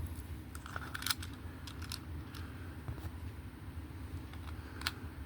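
A few faint, sharp clicks of small diecast and plastic toy parts being handled, over a steady low hum.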